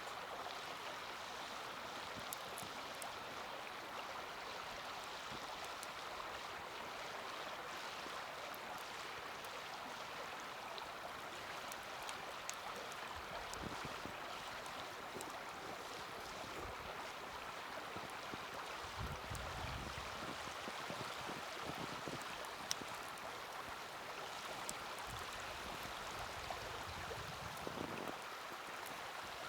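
Small wood fire burning in a mini fire stand: a steady hiss with scattered faint crackles and one sharper pop a little past the middle. Low rumbles of wind on the microphone come and go.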